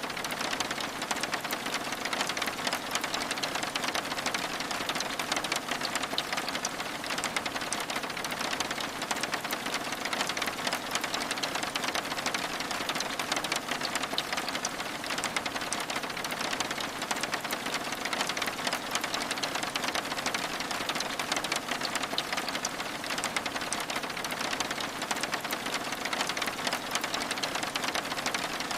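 Steady rain pattering on window glass: an even hiss thick with fine, rapid drop ticks that keeps a constant level throughout.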